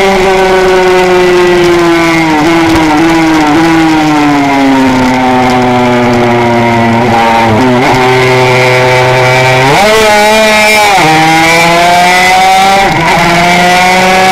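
Honda RS125 two-stroke racing motorcycle engine, heard from onboard: the revs fall in steps over the first few seconds as it slows for a corner, hold steady through the long lean, surge briefly about ten seconds in, then rise steadily as it accelerates out.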